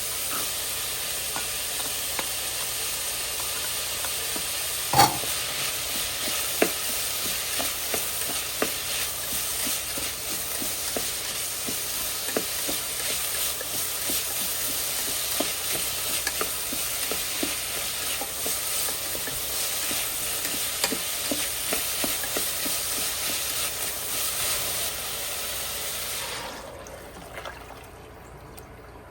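Food sizzling as it fries in a pan while it is stirred, with the utensil clicking against the pan many times and one louder knock about five seconds in. The sizzling drops away near the end.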